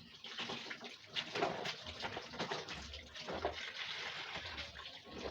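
Water running and splashing, with uneven sloshing throughout.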